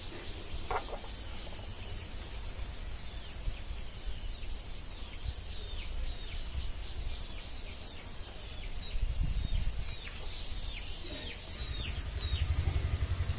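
Birds chirping over and over, many short quickly falling high chirps. A low rumble swells about nine seconds in and again near the end.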